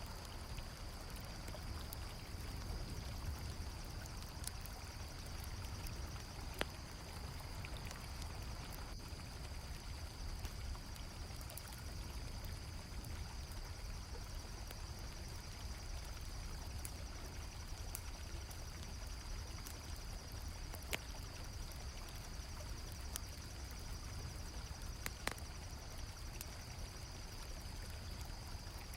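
Flowing river water with a continuous high, rapidly pulsing cricket trill over it, and a few sharp isolated pops of a crackling campfire.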